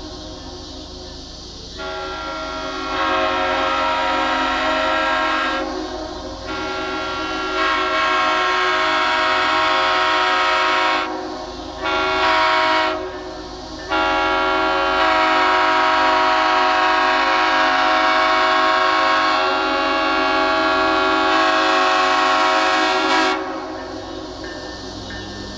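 Nathan Airchime raised-letter K3HL three-chime train horn sounding its chord in a series of loud blasts: two longer blasts, a short one, then a long held blast that cuts off about three seconds before the end.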